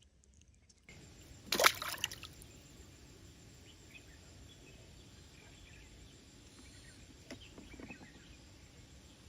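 Stream water running steadily, with one brief, loud splash about one and a half seconds in.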